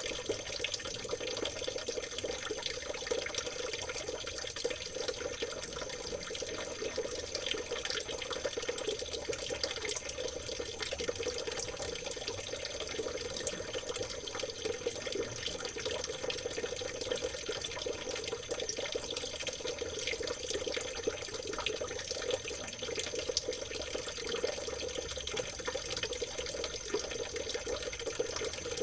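Water in a small stream trickling and babbling steadily, without letting up.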